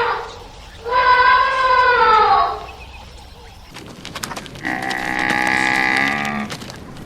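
Cattle mooing. One call trails off at the start, an arching call rises and falls about a second in, and a longer, lower call comes around five seconds in.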